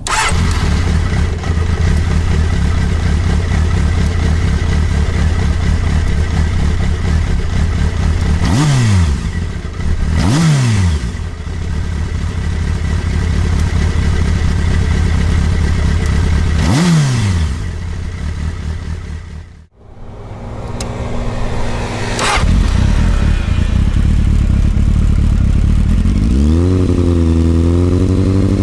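Honda CBF 600 motorcycle's inline-four idling, blipped three times with quick rises and falls in revs. After a brief break it idles again, with a short sharp blip and then a run of wavering revs near the end.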